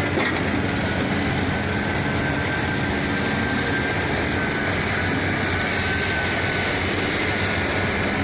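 Steady vehicle noise: a continuous rumble and road hiss with a faint steady high whine, with no breaks or distinct impacts.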